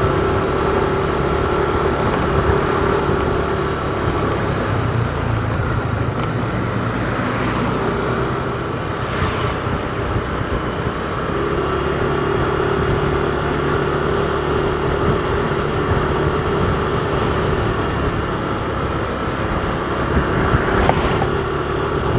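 Car running along a road, heard from inside the cabin: a steady engine hum and road rumble.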